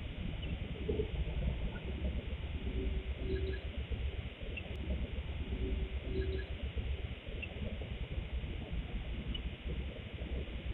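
Low bird calls: short double notes heard twice, about three seconds apart, over the steady hiss of a CCTV camera's microphone.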